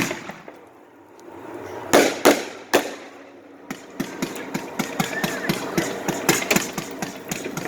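A 99-shot consumer firework cake firing: three loud bangs about two seconds in, then from about four seconds in a fast, steady string of shots, several a second.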